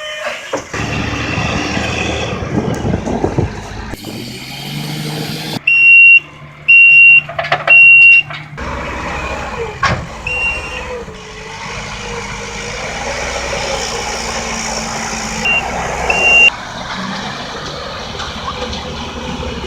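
Dump truck engine running while its backup alarm beeps, loudest in a string of three beeps about six seconds in, with a few shorter beeps later.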